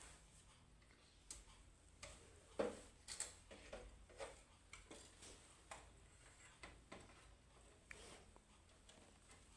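Near silence broken by faint, irregular light clicks and taps, about a dozen of them, the strongest one about two and a half seconds in.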